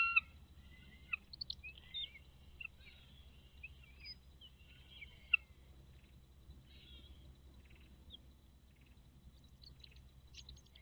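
Birds chirping: scattered short whistles and chirps, frequent in the first half, thinning out after about six seconds, with a few more near the end, over a faint low background hum.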